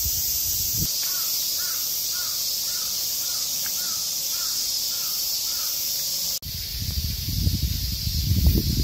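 Outdoor street ambience with a loud, steady high hiss. Over it a bird gives about nine short calls in an even run, about two a second. Past the middle the sound cuts abruptly to a louder, uneven low rumble.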